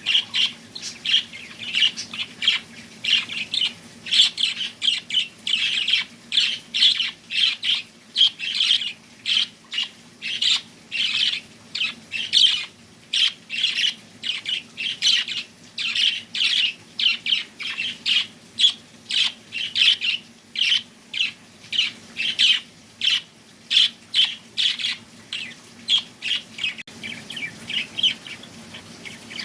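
Birds chirping: a steady run of short, high chirps, about two a second.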